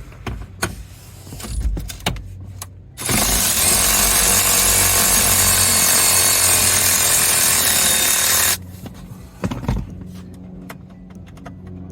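Power driver spinning out a 10 mm dash bolt: a steady motor whine that starts abruptly about three seconds in, runs for five or six seconds and cuts off suddenly. Small clicks and knocks of tool handling come before and after it.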